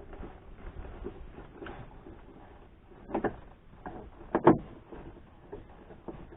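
Car interior trim being worked loose by hand: scattered light clicks and rubbing, a louder knock about three seconds in, and a sharp double knock a second later.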